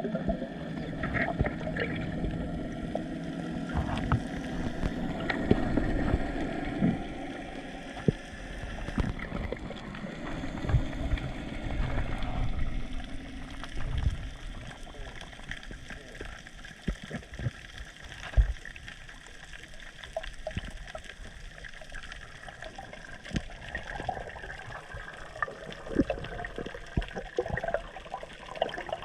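Boat paddle strokes in water: splashing, trickling and gurgling as the blade dips and pulls, with occasional sharp knocks.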